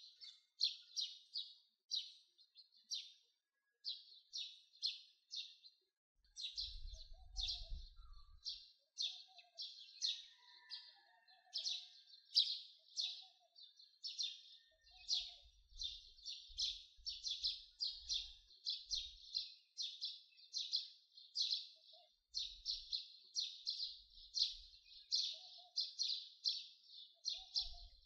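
A small bird chirping over and over, several short high chirps a second, without a break.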